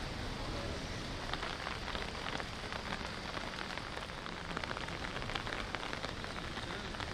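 Rain falling on a wet street: a steady hiss with many small, quick drop ticks.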